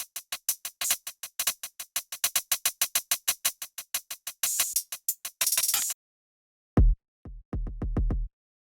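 Electronic drum-machine sounds played in Maschine 2: a fast run of short, crisp hi-hat-like hits, about seven a second, for some six seconds. After a brief gap, a few deep bass-heavy kick hits follow, the last ones in a quick cluster.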